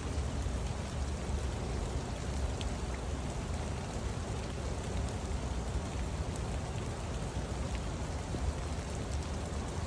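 Steady rain falling, with scattered drops pattering on leaves.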